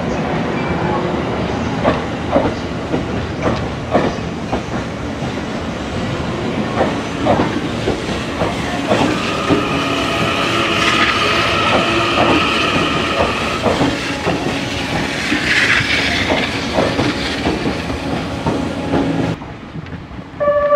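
TRAIN SUITE Shiki-shima (E001 series) cruise train running on the rails, its wheels clicking over the rail joints at an irregular pace. A steady high-pitched tone joins in the middle for several seconds, and the sound drops off abruptly near the end.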